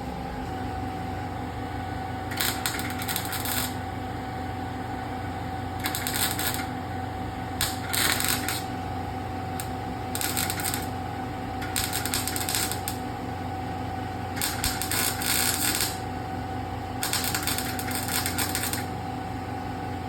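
MIG wire-feed welder laying short welds on car-body sheet metal: a crackling sizzle in about eight bursts of one to two seconds each, with pauses between, over a steady hum.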